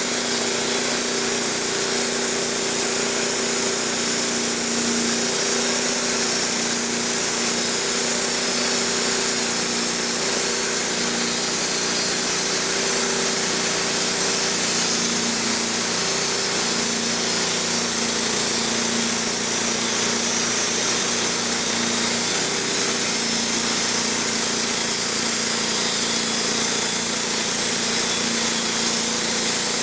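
Wood-Mizer LT15 band sawmill running steadily, its band blade cutting lengthwise through an oak log, taking a thin waste slab off the pith side on the last cut.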